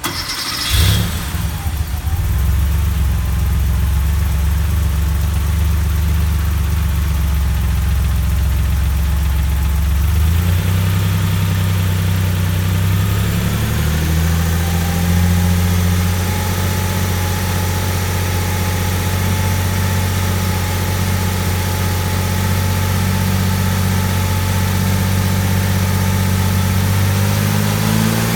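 1988 Porsche 959's twin-turbo 2.85-litre flat-six starting about a second in, catching with a brief burst, then running at a fast cold idle. The idle steps down about ten seconds in and then settles into a steady idle as the engine begins to warm up.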